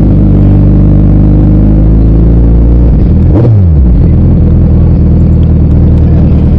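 Suzuki Hayabusa motorcycle's inline-four engine running steadily, with a quick falling drop in engine pitch a little past three seconds in.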